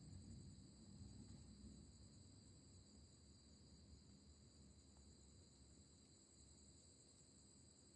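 Near silence with faint, steady high-pitched insect trilling and a low rumble that eases off after the first couple of seconds.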